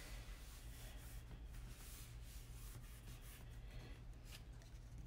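Faint rustling and rubbing of cardstock pieces being handled and layered, with a few soft taps, over a steady low hum.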